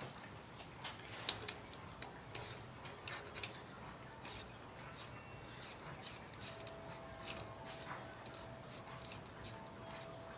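Irregular light metallic clicks and taps from hand tools and small parts being worked on the valvetrain while roller rocker arms are fitted and adjusted on a small-block Ford V8.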